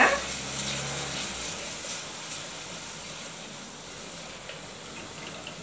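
Steady sizzle of vegetables frying in sesame oil in a pan as chilli powder is stirred in, with a few faint clicks near the end.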